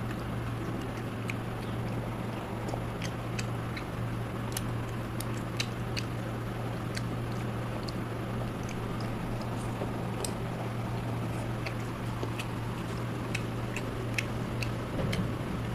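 A person chewing food with the mouth close to the microphone: many small, sharp, wet clicks and smacks scattered irregularly. Underneath runs a steady low hum with background hiss.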